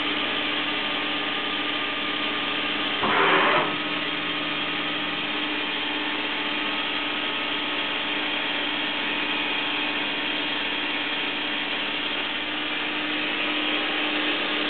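CNC vertical machining center's spindle running steadily at about 5,000 rpm, a constant hum with a steady whine over it. A brief louder burst comes about three seconds in.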